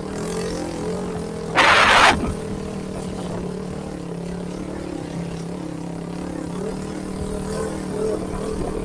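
Motorcycle engine running at a steady speed during a ride, with a short, loud rush of noise about one and a half seconds in.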